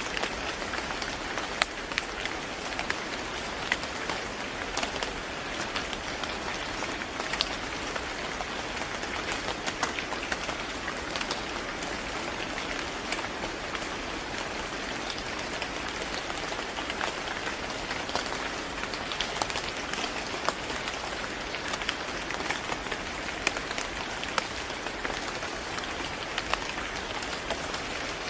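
Steady rain falling on a hard surface, a constant hiss dotted with many sharp individual drop ticks.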